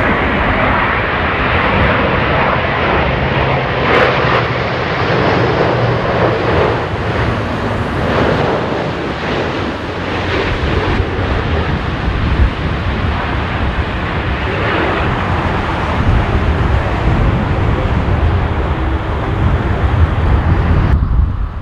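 Jet airliner engines of an Airbus A350-900, its Rolls-Royce Trent XWB turbofans, in a loud steady rushing roar as the aircraft approaches and lands in a strong crosswind; the sound cuts off suddenly near the end.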